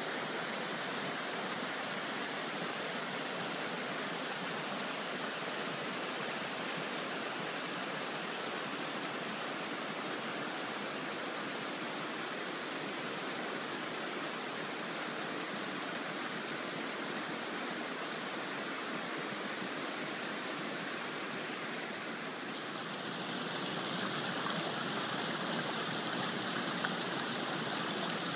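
Tall waterfall rushing steadily, a continuous even roar of falling water; about three-quarters of the way through it grows a little louder and brighter.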